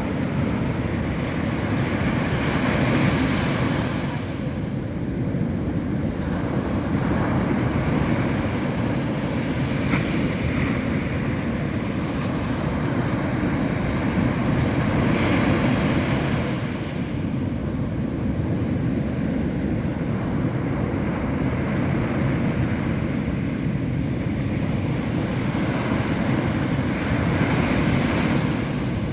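Ocean surf breaking on a beach: a continuous low roar, with a hissing swell each time a wave breaks, every several seconds.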